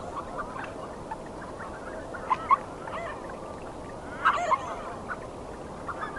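Canvasback ducks calling in a flock: short arched notes over a background of many fainter calls, with two louder calls a little over two seconds in and a cluster of calls about four seconds in.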